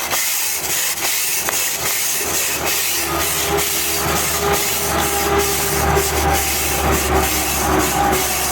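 Ryno crack-cleaning brush scrubbing and scraping dirt and debris out of an asphalt crack in repeated rasping strokes. A low steady engine-like hum joins about three seconds in.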